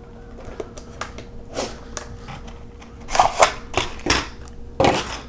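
Diecast model car packaging being opened by hand: a string of clicks, taps and short rustles of cardboard and plastic, busiest in the second half.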